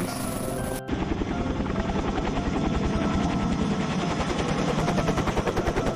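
Helicopter rotor chopping with a fast, even beat of blade slaps over engine noise. It starts abruptly about a second in, after a sharp cut.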